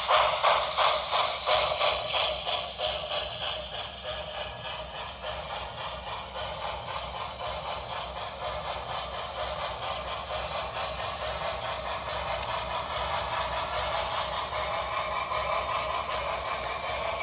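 HO-scale model steam locomotive's onboard sound decoder playing rhythmic steam chuffing, loud at first and fading over the first few seconds, then continuing steadily at a lower level.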